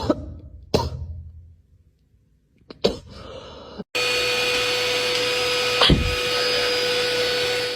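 A few sharp knocks, then about four seconds in an electric motor starts abruptly and runs steadily with a high whine over a loud rushing noise.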